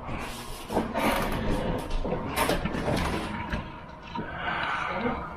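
Kitchen handling noise: irregular clatter and knocks, with rustling, as food is dished onto plates and the plates are moved.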